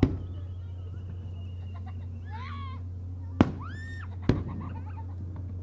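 Three sharp bangs of aerial firework shells: one at the start, then two close together about three and a half and four and a half seconds in, over a steady low hum. Faint crowd voices are heard between the bangs.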